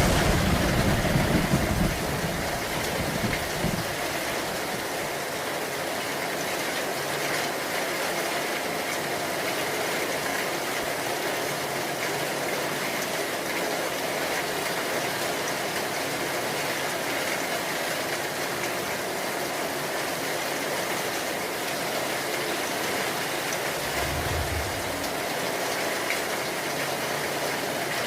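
Steady heavy rain, an even hiss throughout, with a loud low rumble in the first couple of seconds and a brief lower rumble near the end.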